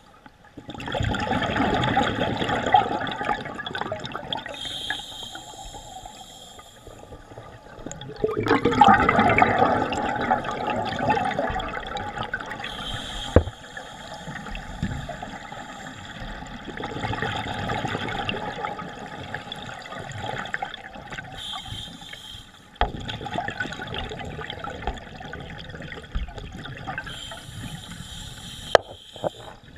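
Scuba diver's breathing through a regulator underwater: exhaled bubbles rush out in surges every several seconds, with quieter stretches and a few clicks in between.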